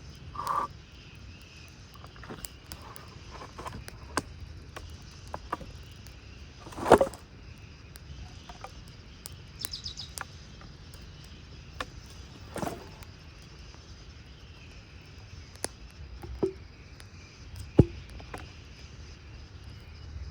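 Scattered sharp knocks and clicks at irregular intervals, the loudest about seven seconds in and another about twelve seconds in. Beneath them runs a steady low outdoor background, with a brief bird chirp near the middle.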